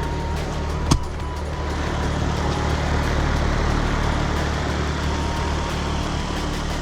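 Central air-conditioner outdoor condenser unit running steadily after its run capacitor was replaced: a low electrical hum from the compressor under the even rush of the fan. A single sharp click about a second in.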